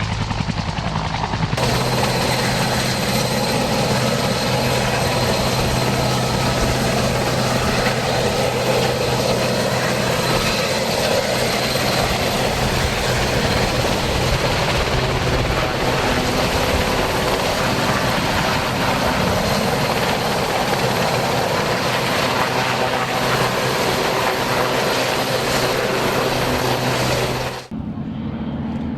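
Helicopter running steadily with a held low engine tone and a rapid rotor beat. The sound changes abruptly about a second and a half in, then cuts out shortly before the end.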